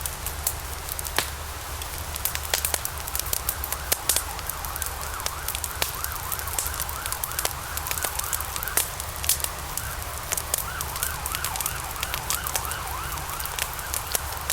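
Wood fire in a fireplace, logs burning with constant crackling and sharp pops over a steady low rumble. From about three seconds in until near the end, a faint wavering whistle rises and falls a few times a second under the crackle.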